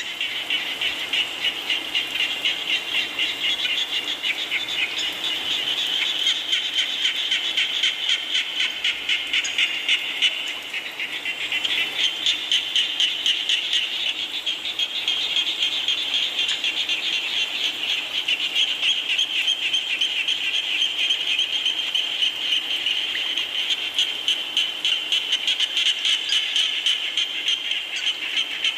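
A dense chorus of frogs calling in fast, rapidly pulsed trills, over a soft even hiss of rain. The chorus thins briefly about ten seconds in, then picks up again.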